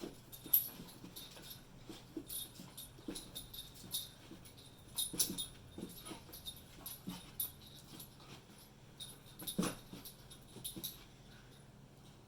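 Beagle puppy whimpering softly in short, breathy bursts, mixed with scattered light clicks.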